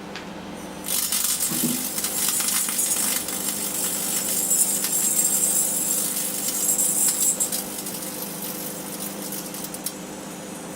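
Microwave oven running with a steady hum while a sealed beam headlamp inside it arcs: about a second in a loud crackling, sizzling hiss starts and goes on for several seconds, then dies down near the end, leaving the oven's hum.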